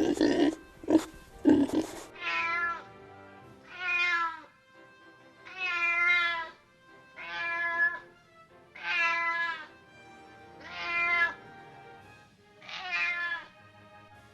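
Domestic cat meowing repeatedly: seven separate meows, one every couple of seconds. Loud, rough bursts fill the first two seconds before the first meow.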